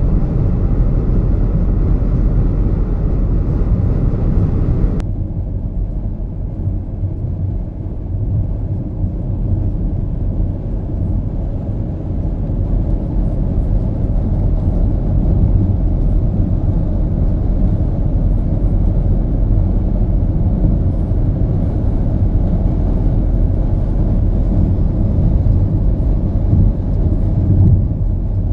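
Steady low rumble throughout, with a higher hiss on top that cuts off suddenly about five seconds in.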